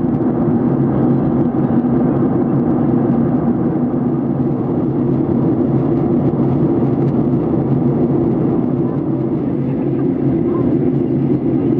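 Steady cabin drone of a Boeing 737-800 in descent: its CFM56-7B engines and the airflow over the fuselage, heard from a passenger seat as an even, unchanging low hum.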